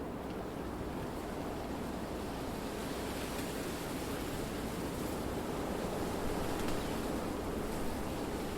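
Wind blowing through trees: a steady rushing of air through foliage that swells a little in the second half, like a gust.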